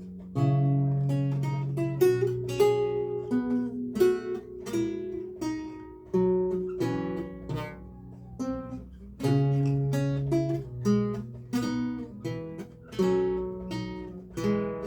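Lute played solo: a recercar, plucked notes in several voices, each one starting sharply and dying away, over held bass notes.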